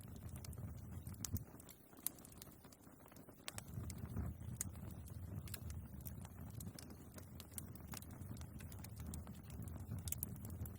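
Wood fire burning in a fireplace: scattered sharp crackles and pops from the logs over a low rumble of the flames, which dips briefly about two seconds in.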